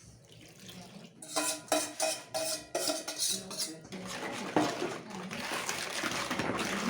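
Kitchen dishes and utensils clinking several times with a short ringing tone, followed from about four seconds in by a steady rush of running water.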